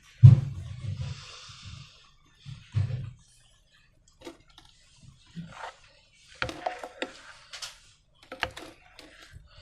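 Hands handling slime and balloons: a heavy low thump just after the start, a brief hiss, another thump near three seconds, then scattered sharp clicks in the second half.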